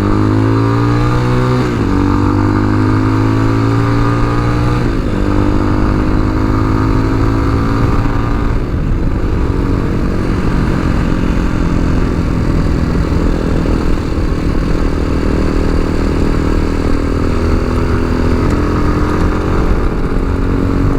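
Tao Tao TBR7 dual-sport motorcycle's single-cylinder engine under way, its pitch rising through two gear changes about two and five seconds in, then cruising at a steady speed, with wind noise over the microphone.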